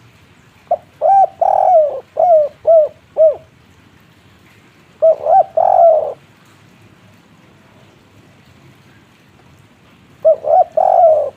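Spotted dove cooing its 'kuk-3' song in three phrases: a longer run of about six notes, then two shorter phrases of about three notes each, the second near the end.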